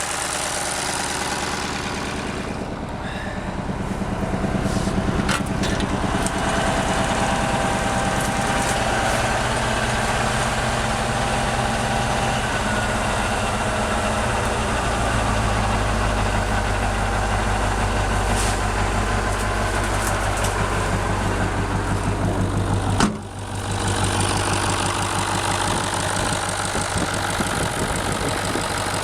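Scania 142's 14-litre V8 diesel idling in a Kharkov T-150K tractor soon after a cold start at about −7 °C, its first run since October. It grows louder a few seconds in and its low note gets stronger about halfway, with a brief click and a short dip near the end.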